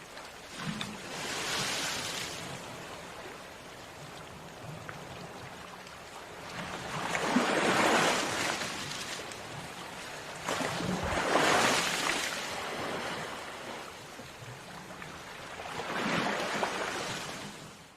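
Sea waves breaking and washing up a shore, four swells about every four seconds, each rising and falling away over a second or two, with a steady hiss of surf between them.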